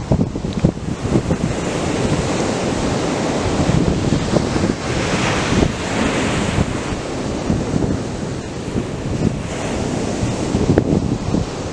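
Atlantic surf breaking and washing up a sandy beach in a continuous rushing hiss. A wave swells into a brighter, louder wash about five seconds in, then eases.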